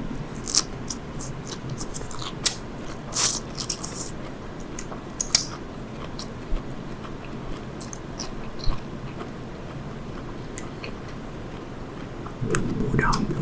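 Close-up eating sounds of sea grapes: sharp, crisp bites and popping in the first few seconds, then quieter chewing.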